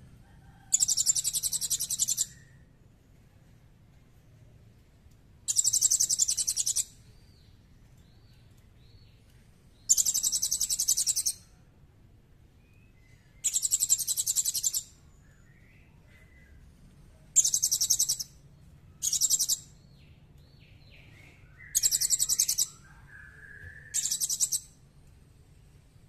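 A small songbird repeating a high, rapid, buzzy trill eight times, each burst lasting about a second, with faint thin whistled notes in the gaps.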